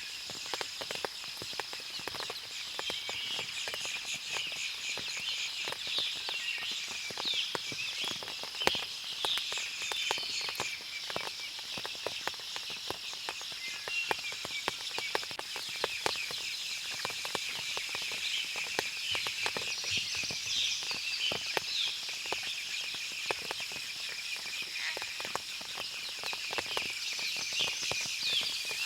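Forest ambience after rain: water dripping from the trees in many small ticks and taps, with birds chirping continuously and a steady high-pitched hum.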